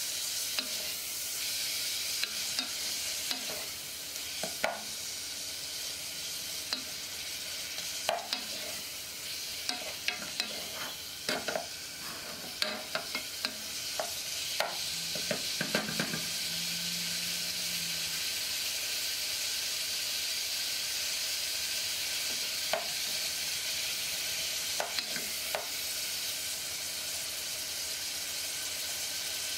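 Beef and scallions sizzling in oil in a nonstick pot, a steady hiss, with the knocks and scrapes of a wooden spoon stirring them. The spoon taps come thickly through the first half and only now and then later.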